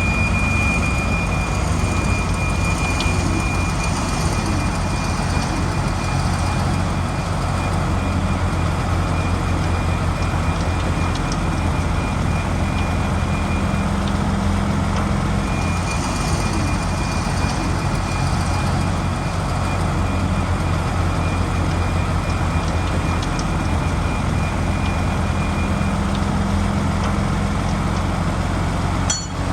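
Heavy diesel earthmoving machinery, most likely the Shantui bulldozer, running steadily under work, with a deep engine drone and a steady high whine through most of it. The sound drops out briefly near the end.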